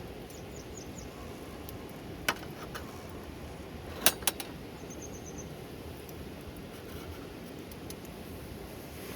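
Steady hiss of rain, with a few sharp clicks about two and four seconds in and two short runs of high chirps from a bird.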